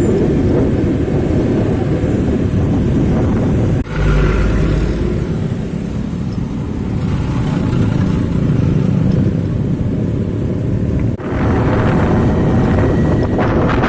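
Road traffic with trucks: heavy vehicle engines running and passing in a continuous loud rumble. The sound breaks off and changes abruptly twice, about four and eleven seconds in.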